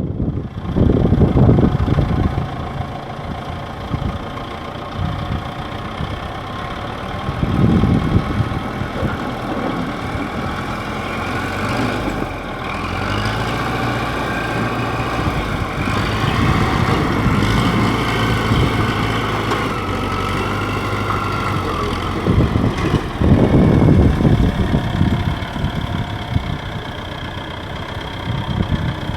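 Heavy equipment's diesel engine running steadily. It picks up in pitch for several seconds in the middle, then settles back, with louder low rumbles a second in, around eight seconds and near the end.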